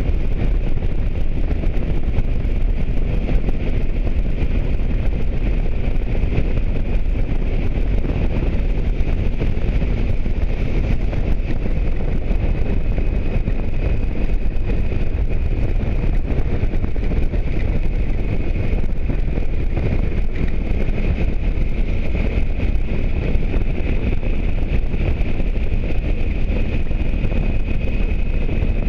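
Motorcycle riding at steady speed in the rain: wind rushing over the microphone, with the engine and tyres on wet road underneath. A faint steady whine runs high above the rumble.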